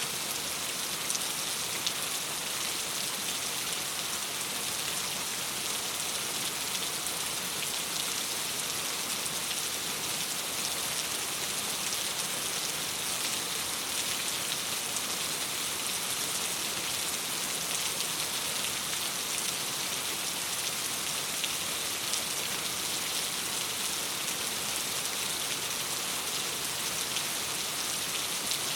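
Steady rain against a window: an even hiss with faint scattered drop ticks.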